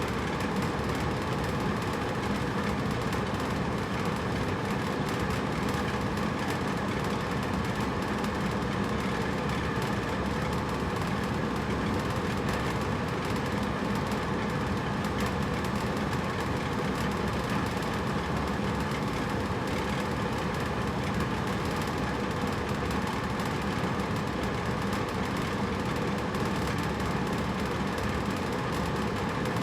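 Hotel room air conditioner running steadily: an even hum and airy hiss with no change.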